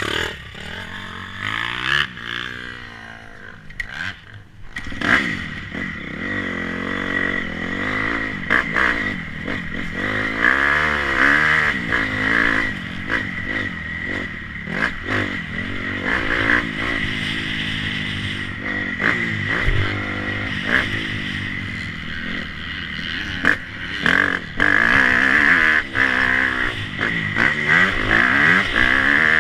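Motocross motorcycle engine revving up and down again and again as it rides, with scattered clattering knocks.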